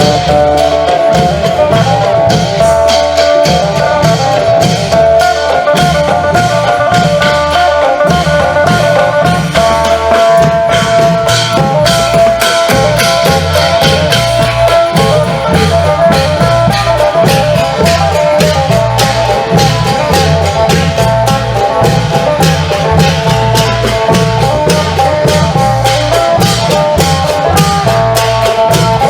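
Isan klong yao long-drum band playing, with a phin lute picking a repeating melody over a steady, fast drum rhythm.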